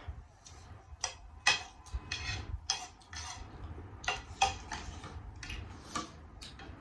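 Eating utensils clicking and scraping against a bowl or plate while food is mixed and eaten, with about eight sharp clinks at irregular intervals.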